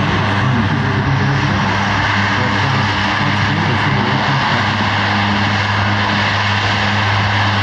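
Four turboprop engines of a C-130J Hercules running steadily, a loud even propeller drone with a constant low hum and a higher whine.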